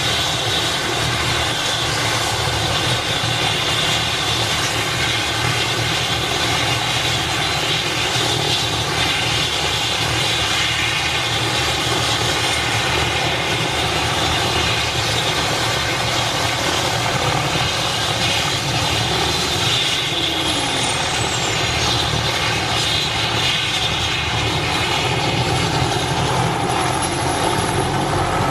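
Mi-8 transport helicopter running steadily: the whine of its twin turboshaft engines over the rotor noise. About 20 s in, a high tone falls briefly, and near the end a faint high whine rises.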